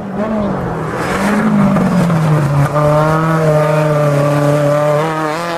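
Rally car engine pulling hard through a corner, its pitch rising and falling, then held at one steady high pitch from about halfway.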